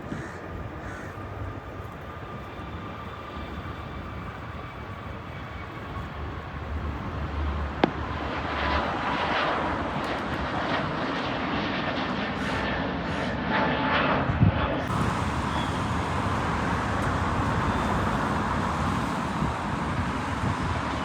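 Jet airliner engines running, a steady rushing noise that grows louder about a third of the way in and then holds. Two sharp clicks stand out, one about a third of the way in and one about two-thirds through.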